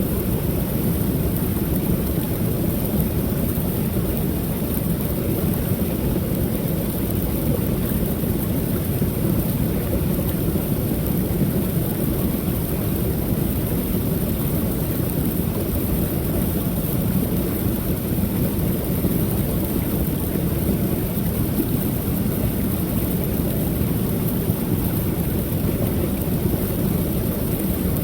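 Creek waterfall pouring steadily: a constant, deep rushing of falling water.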